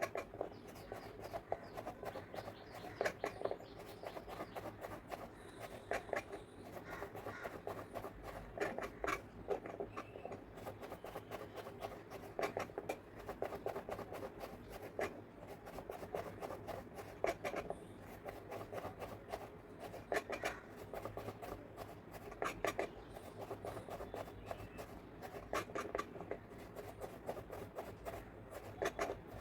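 A kitchen utensil scraping and tapping against cookware in short, irregular strokes.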